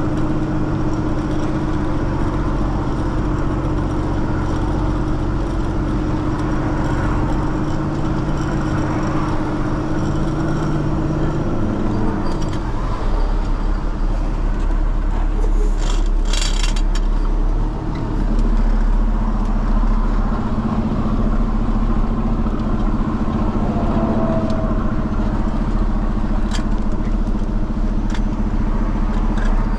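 A heavy truck's engine running steadily. Its note shifts about twelve seconds in and again near eighteen seconds, with a short rattle about sixteen seconds in.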